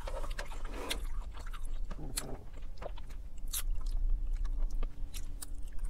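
Close-miked chewing and biting of a mouthful of salad and pasta, with soft crunches and scattered sharp clicks.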